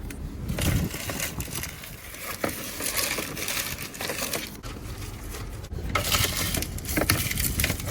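Rustling, crinkling and small clicks and knocks of objects being handled and moved about while a car's interior is being cleared out.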